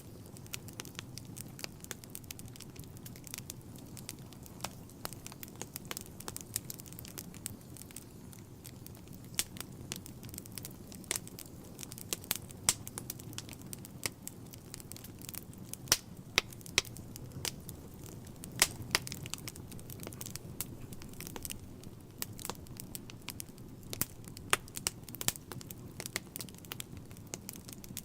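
Wood fire burning in a fireplace: irregular sharp crackles and pops over a steady low rumble of the flames, with a cluster of louder pops roughly two-thirds of the way through.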